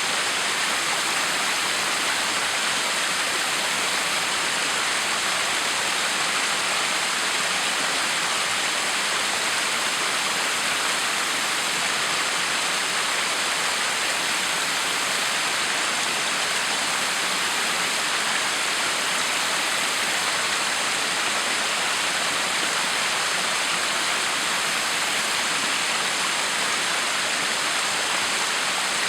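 Backyard waterfall: water falling and splashing in a steady, even rush that does not change.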